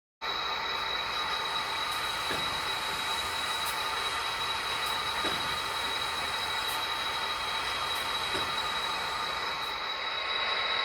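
Model train running on the layout: a steady hiss with a constant high whine, and a faint click about every second and a half.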